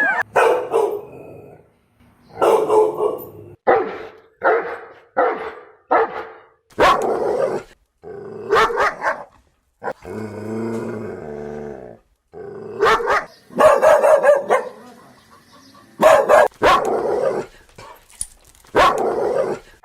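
A dog barking in short barks, about a dozen spread through the stretch, with one longer, lower drawn-out call around the middle.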